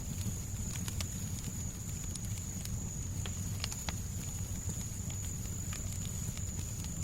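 Fireplace crackling: scattered sharp pops over a low, steady rumble, with a thin, steady high-pitched whine throughout.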